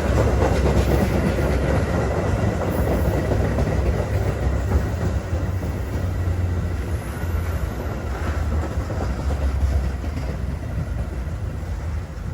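Metra Union Pacific West commuter train pulling into the station, a steady low rumble of wheels on rail that slowly fades as it slows.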